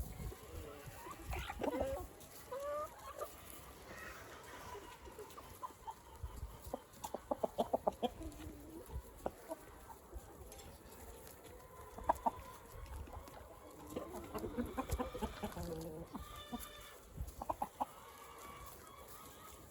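Free-range chickens clucking on and off, with a quick run of rapid clucks about seven seconds in.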